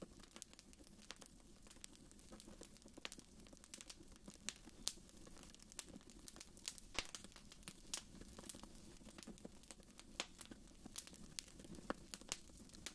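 Faint wood fire in a fireplace crackling: irregular sharp pops and snaps, a few louder, over a soft low rumble of the burning.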